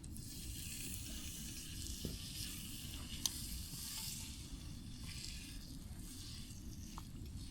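Food sizzling as it fries: a steady hiss with a couple of small clicks.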